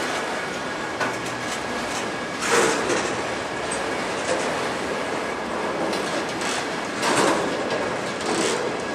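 Loaded autorack freight cars rolling past: a steady rumble of steel wheels on rail, with louder clatter three times as wheel sets go by.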